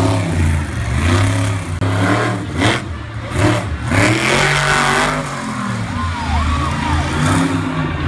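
Monster truck engine revving hard again and again, its pitch rising and falling with each blip of the throttle. A few short rushes of noise come about halfway through.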